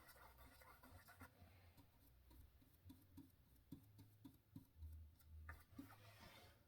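Near silence: room tone with a faint low hum and a few faint ticks and light scrapes.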